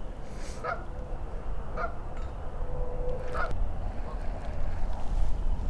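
Geese honking: three short calls, roughly a second or more apart. A low steady rumble comes in about halfway through.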